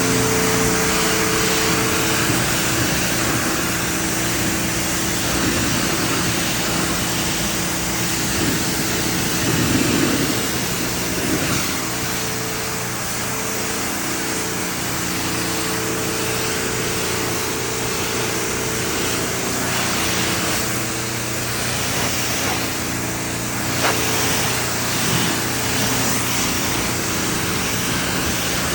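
Small gasoline engine running steadily at a constant speed, with a steady hiss of spray that swells and dips: a gas pressure washer at work washing a pickup truck.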